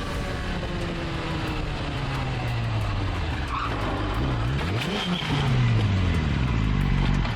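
A car engine running, its pitch falling gradually, rising sharply and dropping back about five seconds in, then falling again, over steady road noise.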